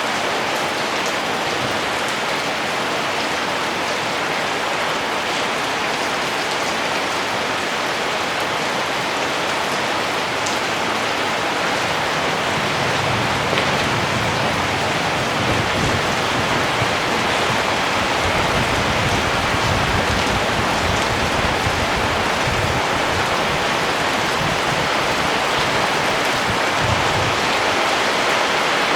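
Steady rain, an even hiss of drops. A low rumble swells and fades underneath through the second half.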